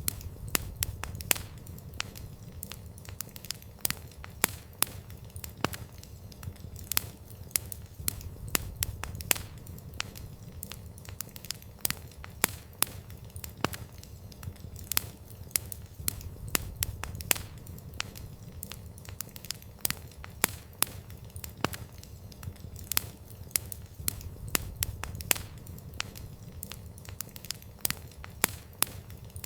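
Wood campfire crackling: irregular sharp pops and snaps of burning wood, several a second, over a steady low rumble.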